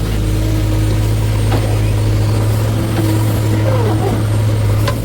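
Heavy diesel machinery engine running steadily with a deep, even drone, and faint voices behind it.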